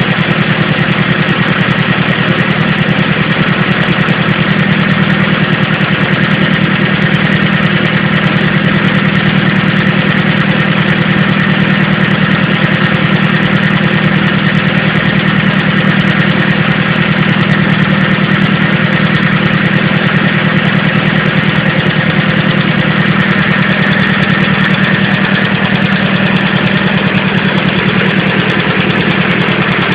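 Vehicle engine idling steadily with a fast, even mechanical beat; the owner is asking whether a noise in it is abnormal.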